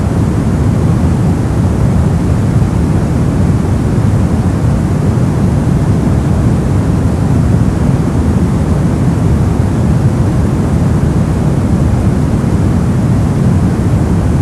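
Brown noise: steady, deep rumbling hiss with most of its energy in the low end and little treble, unchanging throughout.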